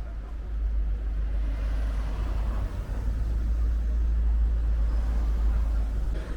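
Steady low rumble of a vehicle on the move, engine and road noise, growing a little louder after about a second.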